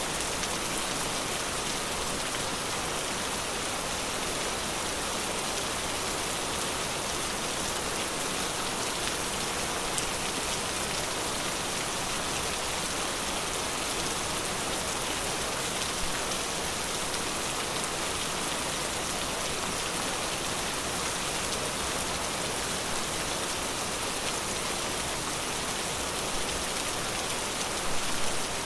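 Steady rain falling in a forest, a dense even patter of drops, with a few louder drops landing close by near the end.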